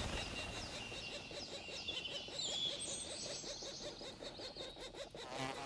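Black woodpecker nestlings calling from inside the nest tree: a rapid, continuous run of high, thin chirps.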